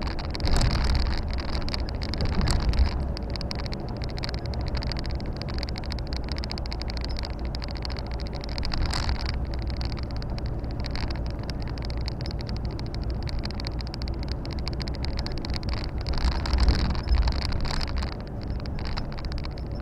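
Volvo FH 460 truck's straight-six diesel engine and tyre noise heard from inside the cab while driving, a steady low drone that swells briefly about a second in, near three seconds and again around seventeen seconds.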